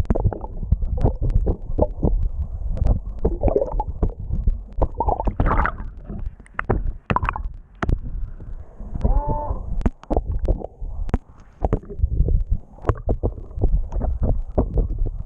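Underwater noise: a constant low rumble dotted with many sharp clicks and crackles, and a short pitched moan about nine seconds in.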